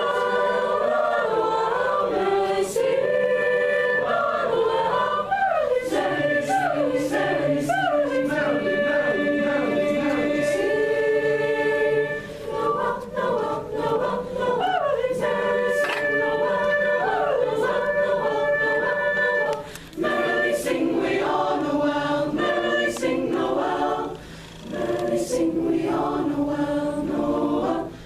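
High school madrigal choir singing a cappella in several parts, held chords and moving lines together, with a few brief breaths between phrases.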